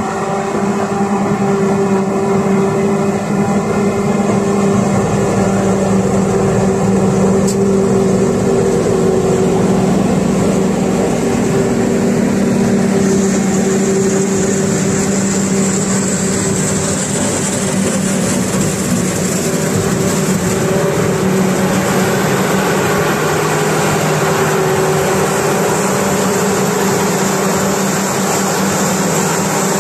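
Heavy diesel farm machinery running steadily at silage harvest, with a high whine that grows louder about halfway through.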